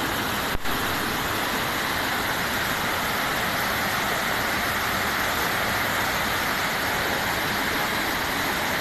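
Steady rushing of floodwater, an even noise that holds its level throughout, with a brief click about half a second in.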